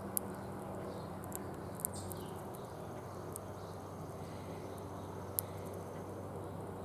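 Outdoor ambience at a backyard bird feeder: a steady low hum and hiss, with three sharp, very short high ticks and a few faint high chirps near the start.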